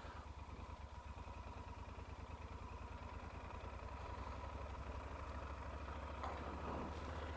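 Yamaha Super Ténéré's parallel-twin engine running steadily at low revs, faint, with a fast even pulse and a faint steady whine. It grows slightly louder toward the end.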